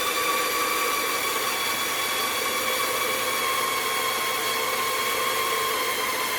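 CaDA M motor, a third-party Power Functions-compatible electric motor, running on a test bench with a steady high whine whose pitch sinks slightly over a few seconds as the motor slows.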